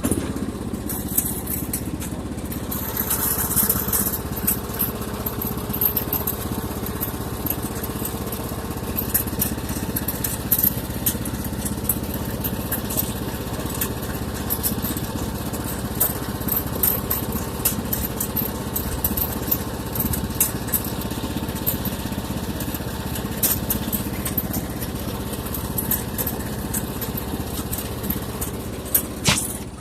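17 hp lawn mower engine running steadily through a motorcycle exhaust taken from a Honda Shadow 750.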